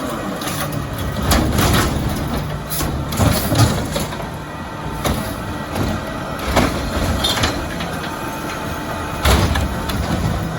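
Diesel Autocar ACX garbage truck with a Bridgeport Ranger rear-loader body at work: the engine runs steadily under a string of sharp clanks and bangs scattered through, about nine in all.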